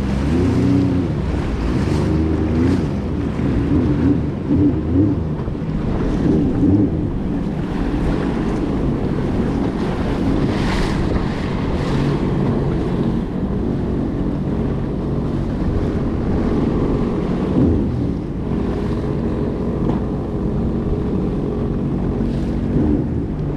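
Jet ski engines running on open water, with wind buffeting the microphone and water splashing. The engine note wavers up and down through the first half, then runs steadier and more even in the second half.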